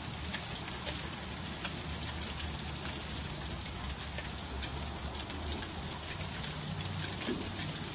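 Freezing rain falling steadily: a continuous high hiss scattered with many small, sharp ticks of drops striking icy surfaces.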